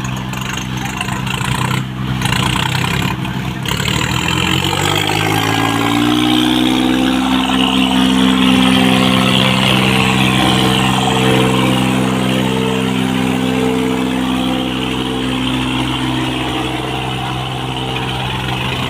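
Swaraj 744 XT tractor's diesel engine revving up over a few seconds, then held steady at high revs.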